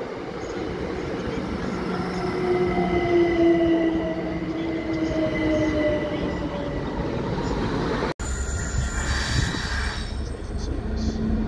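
Southern electric multiple unit running along the platform, its whine and wheel squeal sliding down in pitch over the first few seconds. After a sudden cut about eight seconds in, a GB Railfreight Class 66 diesel locomotive is approaching, with a low engine drone.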